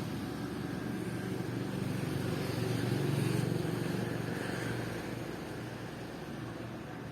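Road traffic: vehicle engine and tyre noise that swells to a peak about three seconds in, then eases off.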